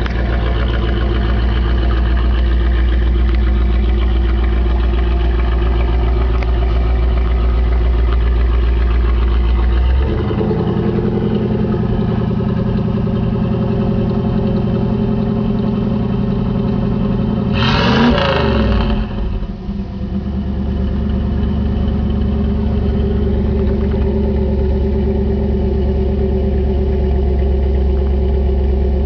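1986 Camaro Z28's 305 V8 idling through Flowmaster mufflers, its low idle note changing about ten seconds in. About eighteen seconds in, a single quick throttle blip sends the revs up and straight back down to idle.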